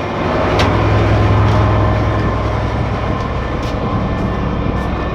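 Steady low drone of ship's machinery running, with a few sharp clicks over it.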